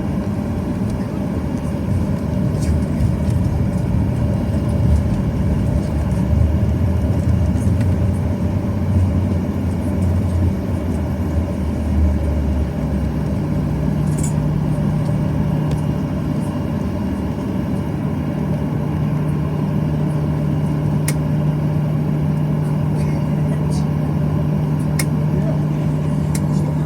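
Boeing 737-800's CFM56-7B jet engines heard from inside the passenger cabin during departure: a loud, steady engine and cabin noise. A low rumble drops out about halfway through, leaving a steady hum.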